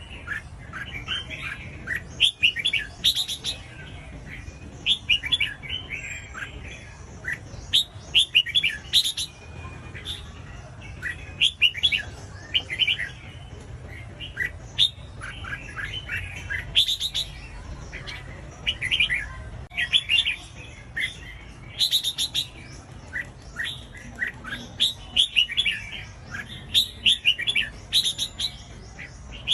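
Red-whiskered bulbul song: short, quick phrases of chirping notes repeated every second or two, over a low steady hum.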